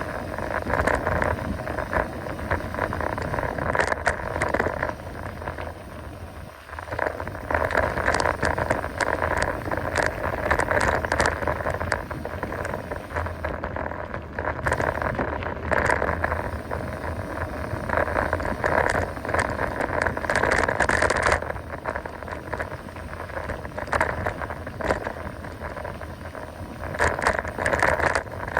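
Mountain bike rolling fast over a dirt trail: tyre noise with the frame and chain rattling and clicking over bumps, swelling and easing as the speed and ground change, briefly quieter about six seconds in.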